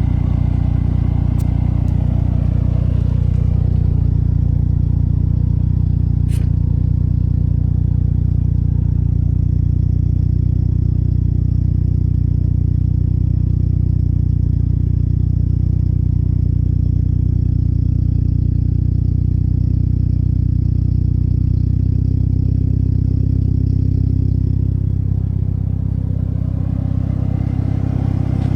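Mitsubishi Lancer Evolution VIII RS's turbocharged 2.0-litre 4G63 four-cylinder idling steadily through a Magnaflow exhaust: a loud, even, low drone, dipping slightly near the end.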